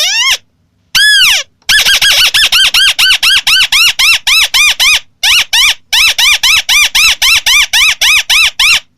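White-browed crake calling: a few short falling notes and one longer arched note, then a fast run of repeated notes, each rising then falling in pitch, about four a second, with a brief pause about five seconds in.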